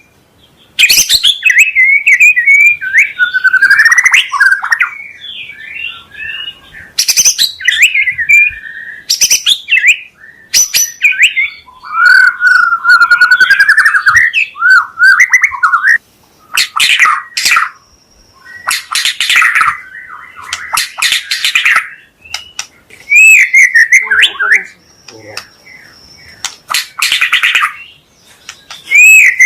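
White-rumped shama (murai batu) singing a loud, fast, varied song: whistled glides broken up by harsh, rasping bursts, delivered in phrases with short pauses between them.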